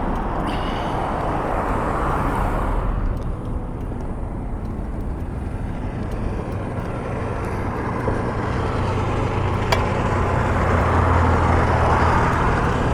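Road traffic passing: the noise of cars swelling and fading, with a low steady engine drone in the second half and a single sharp tick near the end.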